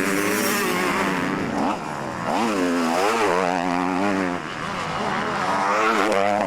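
Motocross motorcycle engines revving hard, their pitch climbing and dropping again and again.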